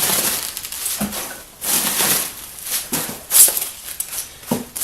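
Styrofoam packing peanuts rustling and shuffling in several irregular bursts as hands dig through them in a shipping box, the loudest burst about three and a half seconds in.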